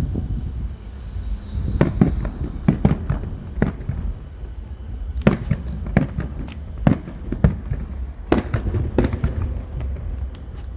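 Aerial fireworks shells bursting: about a dozen sharp bangs at uneven intervals, some in quick pairs, over a continuous low rumble.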